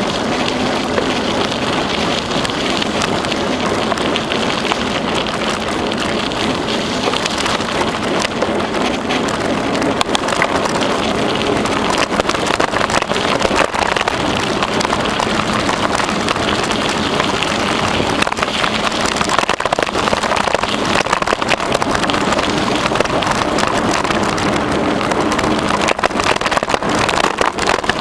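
Bicycle riding along a trail: steady tyre and wind rush with many small crackles and rattles.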